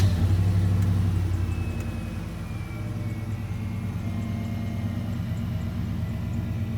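Chevrolet pickup's engine idling steadily just after starting, running with a used alternator fitted for a test.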